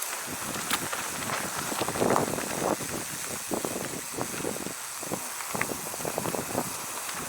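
A mountain bike rolling over a dirt trail: rough tyre and frame noise with many small knocks and rattles, over a steady hiss.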